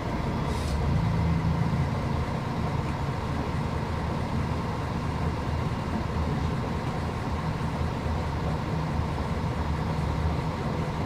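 Diesel engine of a Mercedes-Benz O500UDA articulated bus running steadily, with a brief hiss about half a second in.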